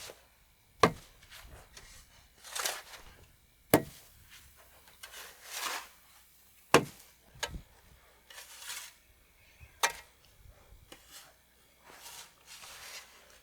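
Wood being worked by hand with a tool: four sharp knocks about three seconds apart, each followed by a short scraping stroke.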